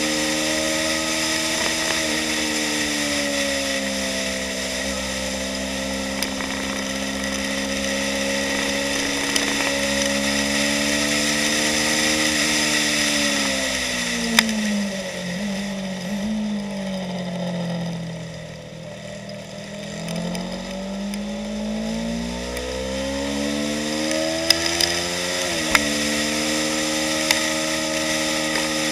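2015 Yamaha YZF-R3's 321 cc parallel-twin engine running hard on track. The revs hold steady, wind down about halfway through as the bike slows for a corner, then climb again under acceleration. Near the end a sudden drop in pitch marks an upshift.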